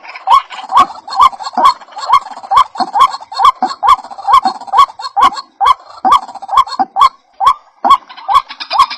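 White-breasted waterhen (ruak-ruak) calling, a fast run of repeated sharp notes at about two to three a second, with a short break about seven seconds in.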